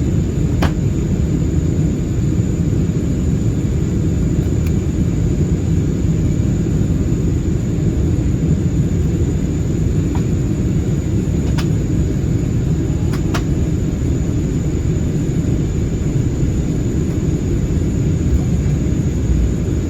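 Steady low rumble inside the cabin of an Airbus A320-216 in flight: airflow and its CFM56 engines, with a few faint clicks.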